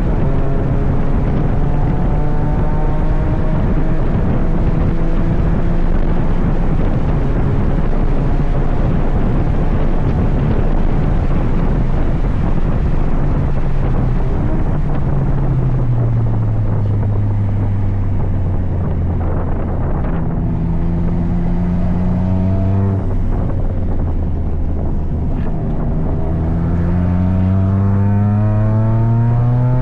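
Toyota GR Yaris's turbocharged 1.6-litre three-cylinder engine at racing speed on track, with wind noise. It pulls up through the revs for a long stretch, drops in pitch about halfway through as it slows, climbs briefly, cuts off sharply for a gear change about three quarters in, then rises again toward the end.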